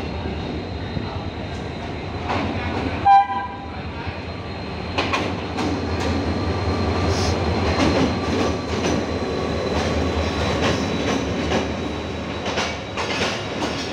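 Pakistan Railways HGMU-30 diesel locomotive running into the station, with one short horn blast about three seconds in. From about five seconds on, the coaches roll past with their wheels clicking over the rail joints.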